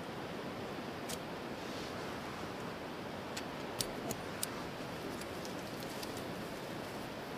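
Wood campfire burning, a steady hiss broken by scattered sharp crackles and pops.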